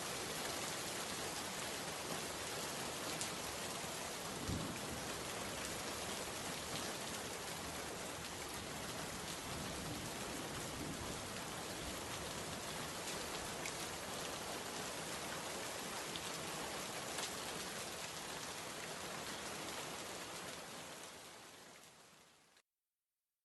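Steady rain falling on a surface, with scattered drop ticks and a low thud about four and a half seconds in. The rain fades out over the last couple of seconds and then cuts to silence.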